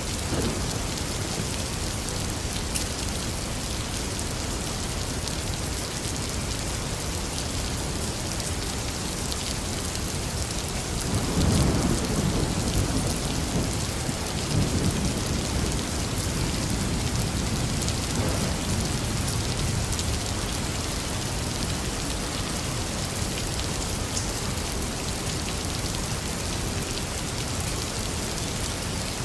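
Steady rain falling, an even hiss throughout. About a third of the way in, a low rumble of thunder rolls in, swells a couple more times and fades out.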